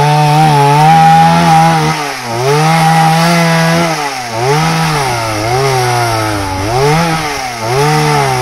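Chainsaw running while cutting through a log, its engine pitch dipping and recovering several times as the chain bites into the wood.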